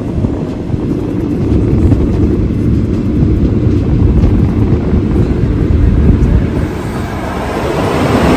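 Steady running rumble and wind noise of a moving passenger train, heard from its open coach door. Near the end the noise swells as an oncoming electric locomotive on the next track draws level.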